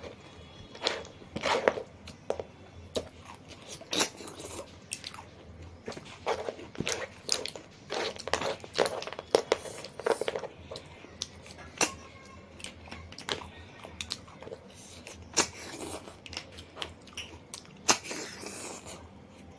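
A person chewing and crunching food close to the microphone, with irregular wet smacks and crunches every second or so.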